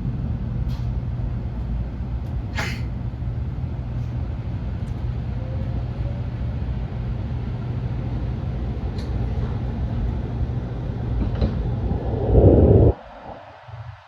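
Cabin noise of a Nishi-Kyushu Shinkansen N700S train running: a steady low rumble and hum with a few light clicks. It swells briefly near the end, then drops off suddenly.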